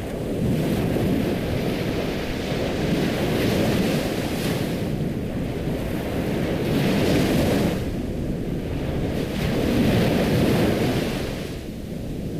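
Ocean surf: waves washing in and drawing back, swelling about four times over a steady low rumble.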